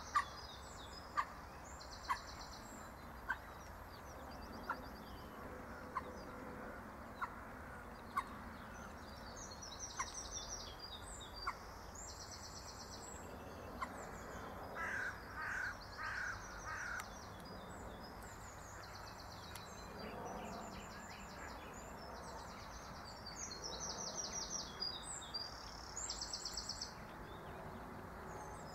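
Wild birds singing in the background, with repeated high trilled phrases throughout. A sharp tick comes about once a second for the first dozen seconds, and a few louder clusters of calls come in the middle and near the end.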